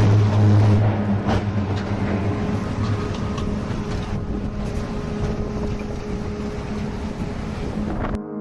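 Storm-force wind blowing hard in gusts over the microphone, with a steady low hum and a few sharp knocks.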